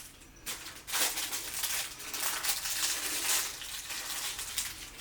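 Plastic packaging crinkling and rustling as the wax applicator sticks are pulled out of their wrapper. The rustling comes in dense crackly bursts.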